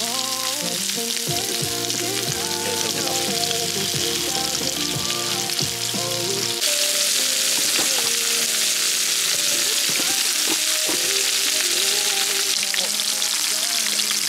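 Pork belly frying in its own fat on a grill pan over a portable gas stove: a steady, loud sizzle that grows louder about halfway through. Steady background music plays underneath.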